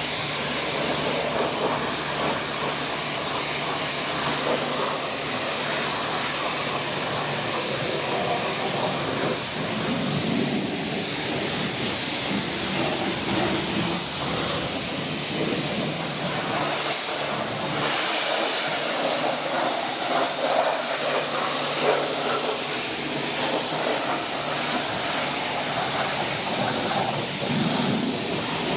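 Steady hiss of a high-pressure water jet spraying over a car's engine bay, swelling and easing a little as the spray moves across surfaces.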